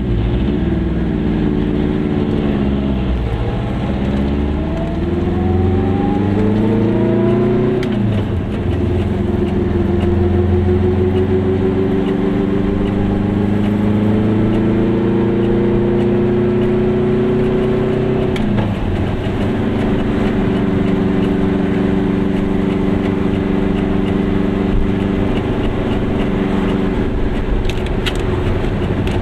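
Goggomobil's two-stroke twin engine pulling the car away, heard from inside the car. Its pitch climbs, drops with an upshift about 8 seconds in and again about 18 seconds in, then holds steady at cruising speed.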